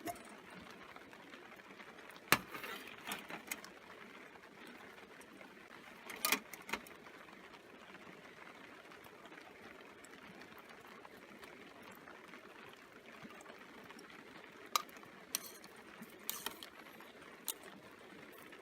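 Steady hiss of rain, broken by a few sharp clicks and knocks scattered through it.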